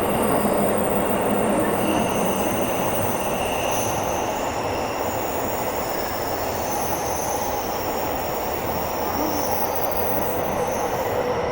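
Tokyo Metro 17000 series subway train running through a tunnel, heard from inside the car: a steady rumble and rolling noise, with thin high-pitched wheel squeals coming and going.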